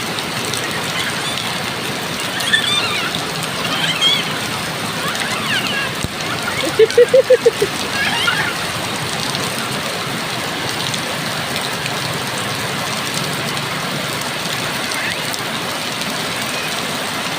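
Steady downpour of rain, with faint high voices now and then and a short loud run of rapid pulses about seven seconds in.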